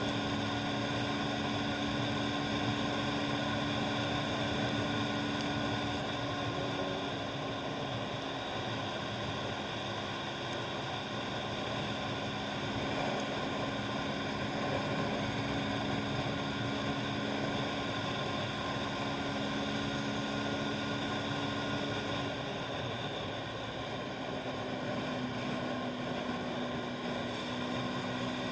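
Motorbike engine running at a steady speed under a steady rush of road and wind noise, its hum shifting slightly in pitch about 22 seconds in.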